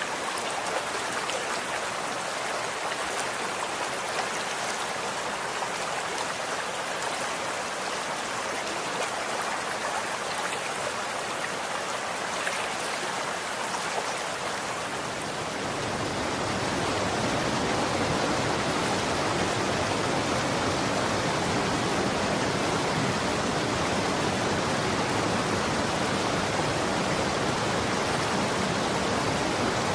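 Running water flowing steadily, like a stream, with a fine splashing hiss. About halfway through the sound turns fuller and deeper and grows a little louder, then stays steady.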